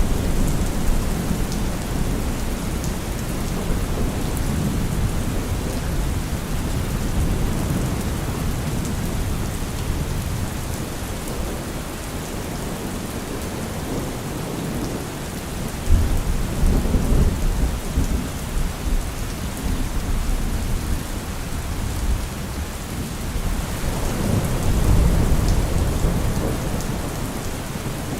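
Steady rain falling, with rolls of thunder: a low rumble near the start, a sudden louder one about halfway through that lasts a few seconds, and another near the end.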